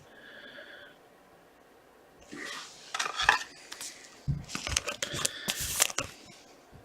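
Plastic and card stock rustling and crinkling as hockey trading cards and packs are handled, in two spells with sharp clicks, the second and longer one near the end.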